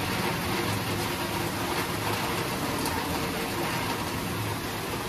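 Steady downpour of rain, an even hiss with a low rumble underneath and no distinct drops or thunderclaps.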